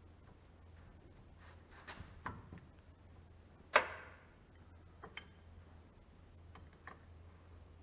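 Hand tools clicking and tapping against metal parts, a few scattered knocks, with one sharp ringing clink about four seconds in.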